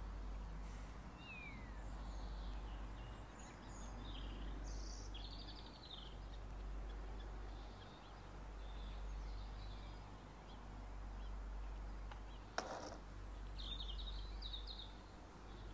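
Birds chirping now and then, in short high twittering calls, over a steady low hum. A single sharp click about two-thirds of the way through.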